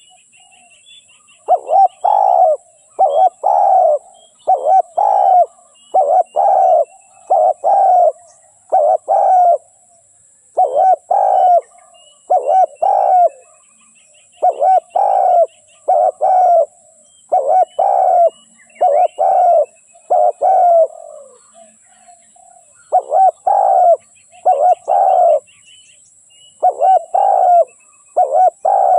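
Spotted dove cooing over and over in short groups of two or three coos, with brief pauses between phrases. Faint chirping of small birds and a steady high hiss sit behind it.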